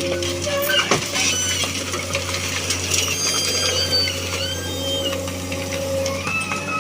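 Excavator running with a steady low engine hum, over it high squeaking, gliding tones and occasional clicks from its working parts.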